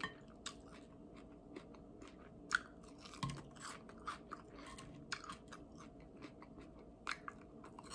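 Someone chewing barbecue chicken wings close to the microphone: soft, irregular wet mouth smacks and small crunches, a few a little louder around the middle.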